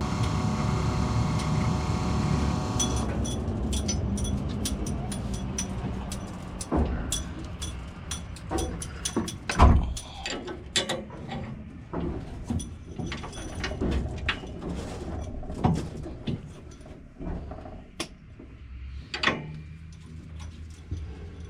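A steady machine hum for about the first three seconds, then a long run of irregular metallic clanks, knocks and rattles from parts being handled and fitted. One loud knock comes about ten seconds in.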